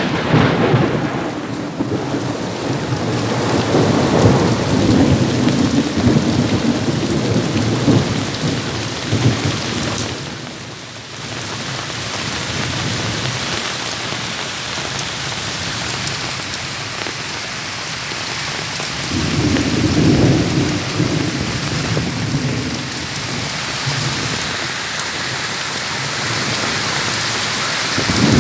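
Heavy rain falling steadily in a thunderstorm, with rolling thunder rumbling over it. The thunder swells at the start, again about twenty seconds in and at the end, and the rain eases briefly a little before halfway.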